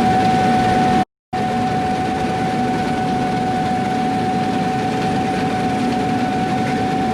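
Gleaner S78 combine harvester running steadily under load, a constant high whine over the machine's noise. The sound drops out briefly about a second in, then carries on unchanged.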